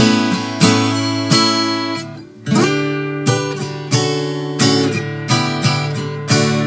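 Acoustic guitar played alone, chords plucked in a steady rhythm about every two-thirds of a second, with a brief drop a little over two seconds in.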